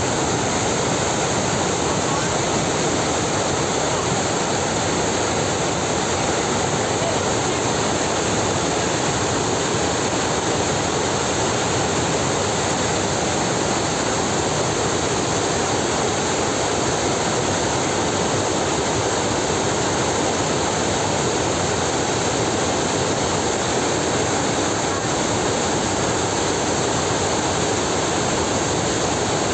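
Fast-flowing floodwater rushing steadily, an even, unbroken rush of water.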